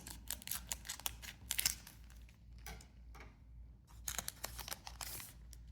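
A foil booster pack being torn open and trading cards handled: a run of light crinkles and clicks, quieter in the middle, with a denser stretch of crinkling about four to five seconds in.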